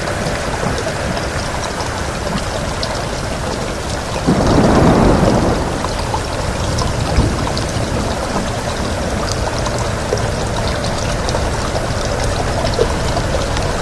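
Steady rain with wind, scattered drops ticking through it. About four seconds in, a louder low swell rises and falls back over a second or two.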